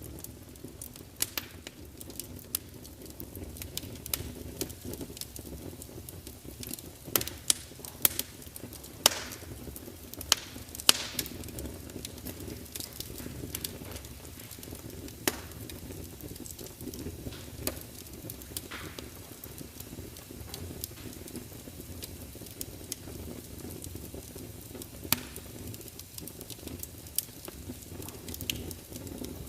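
Wood fire in a large fireplace crackling, with a steady low rumble of flames and frequent sharp pops and snaps from the burning logs, some of them loud, especially in a cluster a third of the way in.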